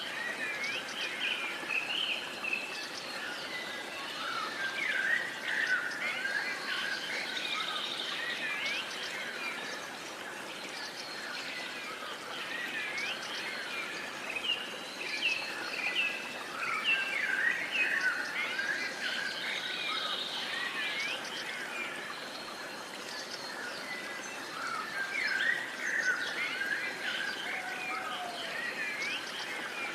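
Many birds chirping and calling at once, a dense chorus of short chirps and quick gliding notes, over a steady background hiss.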